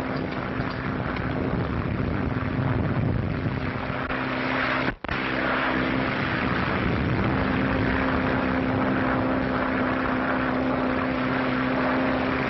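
Propeller airplane engine droning steadily in flight, a constant hum over rushing noise. The sound cuts out for an instant about five seconds in.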